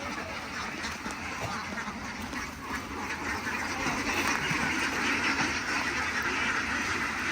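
A large flock of domestic ducks quacking in a dense, continuous chorus of many overlapping calls, growing louder about halfway through.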